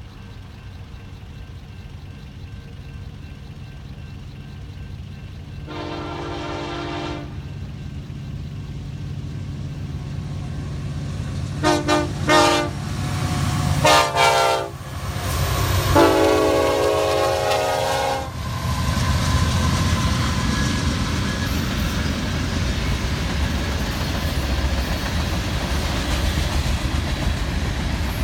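Union Pacific locomotive approaching with its engine rumble growing louder. Its air horn sounds one blast, then two short blasts close together, a brief one, and a long blast of about two seconds. The train then passes with a steady rumble and wheel noise.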